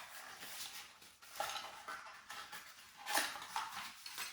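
Metal parts of a Fintorp kitchen rail kit being handled and taken out of their box: scattered light clinks and rustles, the loudest about three seconds in.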